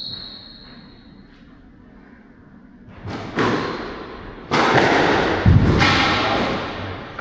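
Squash rally: racket strikes and the ball thudding off the court walls, each hit ringing in the hall. The hits start about three seconds in and are thickest and loudest in the middle, with one heavy low thud. A faint high squeak comes at the very start.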